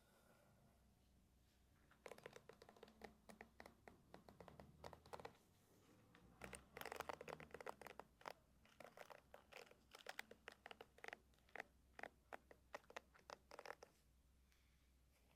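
Hairbrush bristles stroking through hair close to the microphone: a run of quick, short strokes, several a second, starting about two seconds in and stopping shortly before the end.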